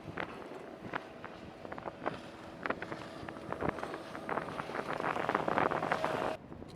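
Wind buffeting the microphone, with many short knocks and a faint steady hum, building up and then cutting off abruptly near the end.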